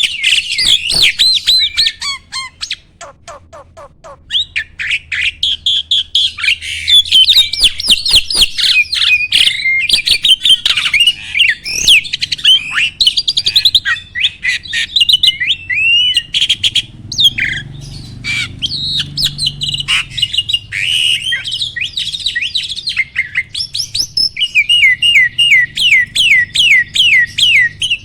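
A jalak (starling) singing a long, varied chattering song of rapid whistled notes and sharp clicks, with a short lull about three seconds in and a fast run of evenly repeated notes near the end.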